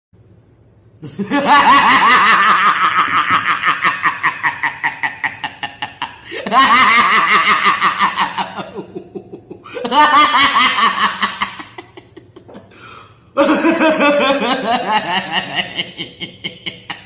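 A voice laughing in four long bouts of quick, evenly pulsed ha-ha-ha sounds, each starting loud and trailing off.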